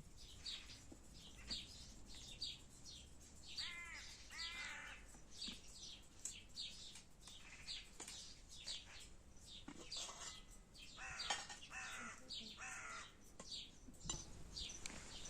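Birds chirping, short high calls repeated again and again, with two louder, harsher calls about four seconds in and a busier run of calls past the middle.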